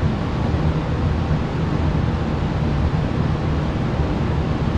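Steady low rumble with an even hiss underneath, unchanging throughout, like running machinery or an air mover.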